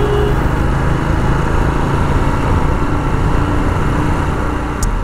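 Royal Enfield Himalayan's single-cylinder engine running steadily as the motorcycle rides along.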